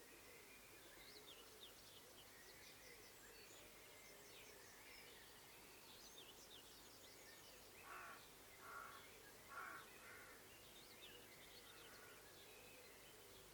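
Faint outdoor birdsong: quick, high twittering songbird phrases, with three louder, harsh crow-like caws about a second apart near the middle.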